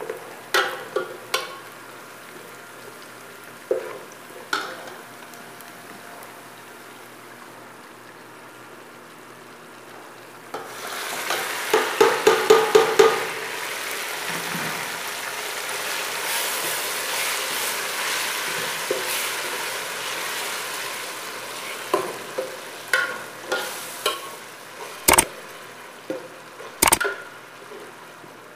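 Onions frying in oil in an aluminium pot while a metal spoon stirs and scrapes, knocking against the pot now and then. About ten seconds in, the sizzle jumps much louder as red spice is added and stirred in. It holds steady, then eases, with two sharp knocks near the end.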